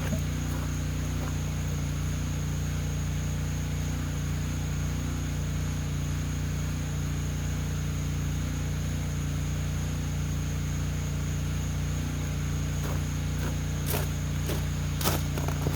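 A steady low mechanical hum with a faint high whine above it, and a few sharp knocks about fourteen and fifteen seconds in.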